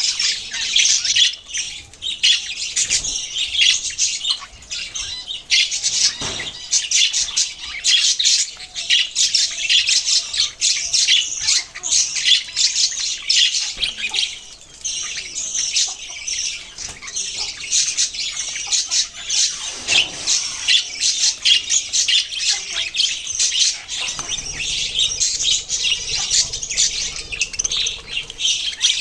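A flock of budgerigars chirping and chattering without pause, many short calls overlapping.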